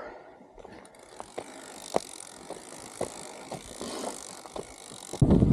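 A bicycle being pushed along on foot, with scattered clicks and knocks over a faint hiss. Just before the end, loud wind buffeting on the microphone cuts in suddenly.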